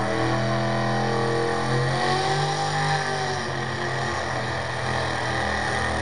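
Pulling truck's engine running hard under load, its pitch rising about two seconds in and then dropping back.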